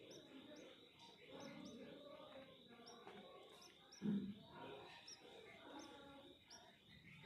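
About a dozen short, faint, high-pitched bird chirps, irregularly spaced, over a low hiss.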